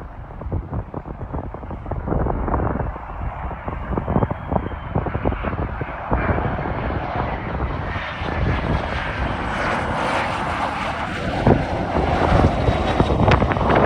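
Cessna Citation Latitude business jet's twin turbofan engines on landing, a rushing jet noise that grows louder, with a thin high whine that slowly falls in pitch.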